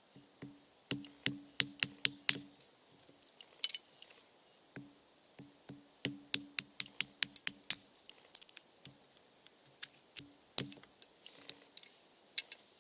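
Two quick runs of sharp wooden knocks, about four to five a second, each with a short hollow ring, typical of splitting kindling by tapping a blade through a log, with a few lighter knocks near the end.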